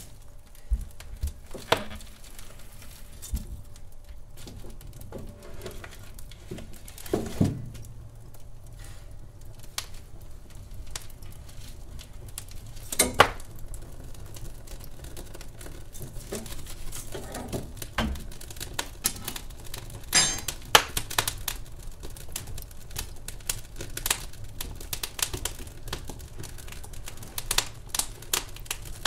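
Wood fire in a fireplace crackling, with irregular snaps and pops and a few louder pops over a low steady rush.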